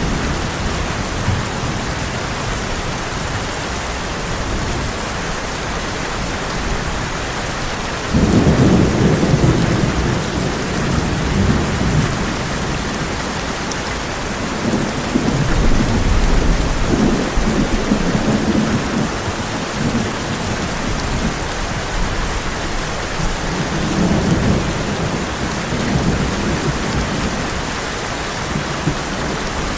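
Heavy rain drumming steadily on a tin roof. Thunder breaks in suddenly about a quarter of the way through and rumbles in waves, with further rolls of thunder later on.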